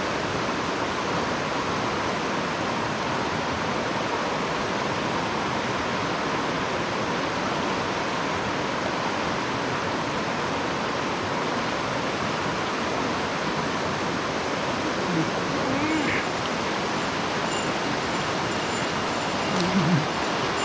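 Mountain stream rushing steadily over rocks, running high after rain. A short low voice sound is heard twice, about 15 and 20 seconds in.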